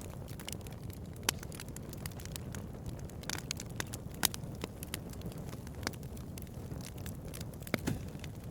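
Bonfire crackling: a steady low rumble of burning wood with frequent irregular pops and snaps, a few of them sharper and louder.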